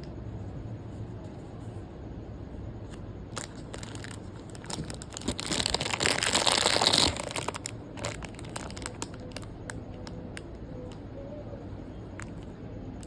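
Crinkling, rustling handling noise with scattered clicks, loudest in a burst of rustling from about five to seven seconds in that stops abruptly.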